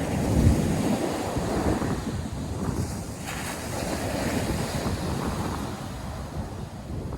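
North Sea surf washing steadily onto a sandy beach, with wind gusting on the microphone; the loudest gust comes about half a second in.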